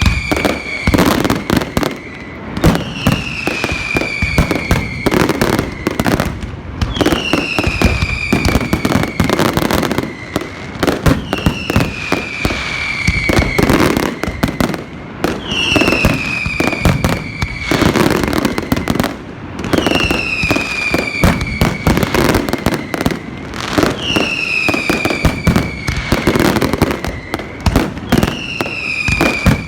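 Fireworks display with a dense run of bangs and crackling. A high whistle falls in pitch and repeats about every four seconds over it.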